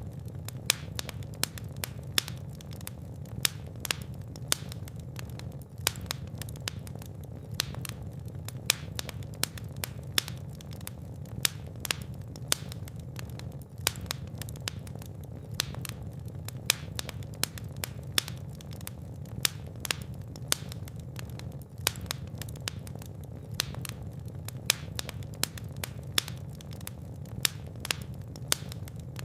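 Fire burning in a fireplace: frequent sharp, irregular crackles and pops over a low, steady rumble of flames.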